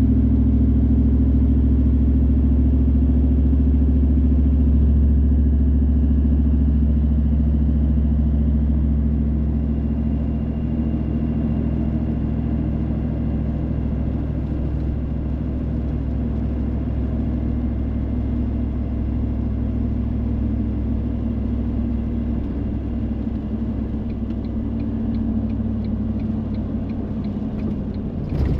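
Car driving on a wet road in the rain: a steady low drone of engine and tyres that eases off about ten seconds in. A single sharp knock comes at the very end.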